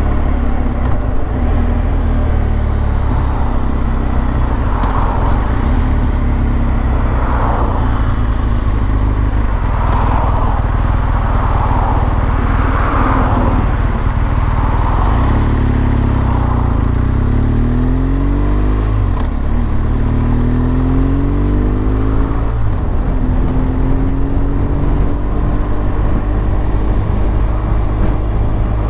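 BMW R1200 GS boxer-twin engine running while the motorcycle is ridden, with steady low road and wind rumble. Past the middle the engine pitch rises and drops a few times as the bike speeds up and shifts.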